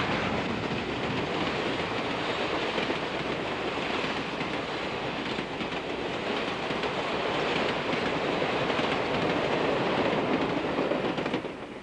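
Steam excursion train running by: a steady rumble and clatter of wheels on the rails, which drops away sharply near the end.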